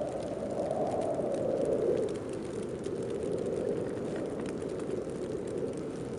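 Snowstorm wind blowing in gusts: a hollow rushing sound that swells and dips in pitch, strongest about two seconds in, with faint scattered ticks over it.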